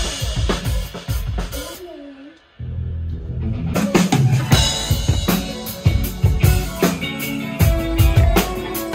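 Live band playing at a sound check: a drum kit with kick, snare and cymbal hits over sustained bass and other pitched instruments. The playing thins and nearly stops about two seconds in, then the full band comes back in about half a second later.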